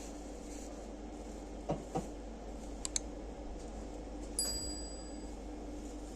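Steady hum of a train compartment's interior, with two soft knocks, two small clicks and a short bright metallic ding about four seconds in.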